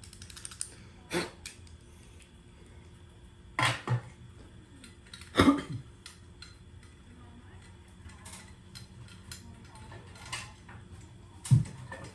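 A handful of separate metallic clinks and knocks, the loudest about halfway through, typical of hardware or tools being handled and set down.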